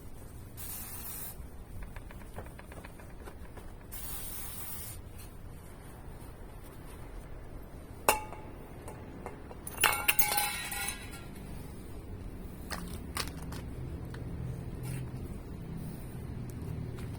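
Small metal objects clinking: one sharp ringing clink about eight seconds in, then a short rattle of ringing clinks a couple of seconds later. Two brief hissing bursts come earlier.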